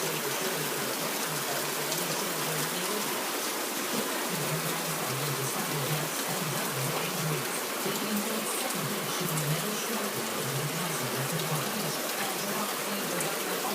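Heavy rain falling steadily, with scattered sharp drop ticks.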